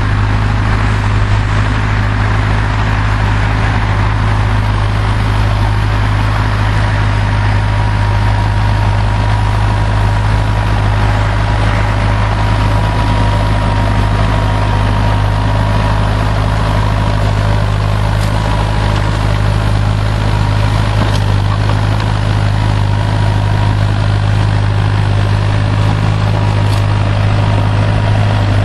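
Same Silver 110 tractor's diesel engine running steadily under load while pulling a four-furrow plough, with a faint thin whine through the middle.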